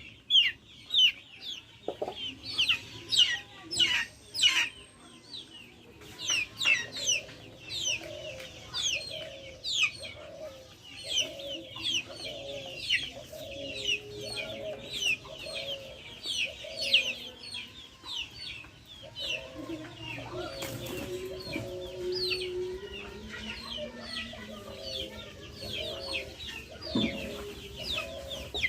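Backyard chickens calling: a low clucking repeats about twice a second through most of the stretch, under a steady stream of high, short, falling chirps.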